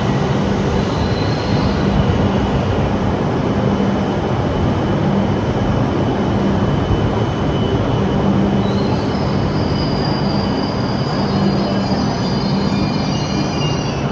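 E5 series Shinkansen train running slowly alongside the platform: a steady rumble with a pulsing low hum, and high whining tones that come in about nine seconds in.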